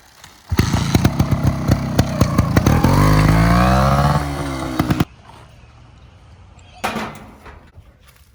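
Two-stroke trials motorbike engine (a 2012 Beta Evo 250) starting about half a second in with rapid popping, revving up and back down in pitch around three to four seconds in, then cutting off suddenly at about five seconds. A short, separate loud burst follows near seven seconds.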